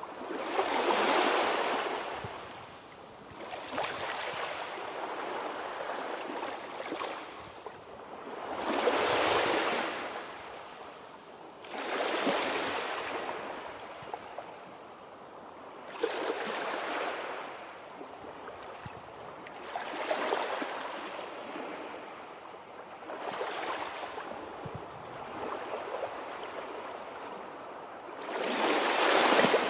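Sea surf: waves rush in one after another, each a swelling and fading hiss of water, every few seconds. The largest swells come about nine seconds in and near the end.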